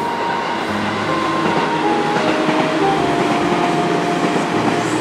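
Electric train running past on the tracks: a steady, loud rumble of wheels on rails, with light background music playing over it.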